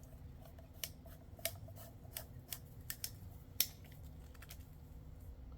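Irregular sharp plastic clicks and taps as lamp sockets and their wires are fed into a PVC pipe fitting, about a dozen in the first four seconds with the sharpest one near the middle, over a low steady hum.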